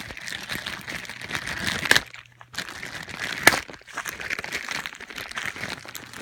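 Uneven crinkling, crunching rustle of dry material being handled and shifted over the ground, with a sharp crack about three and a half seconds in.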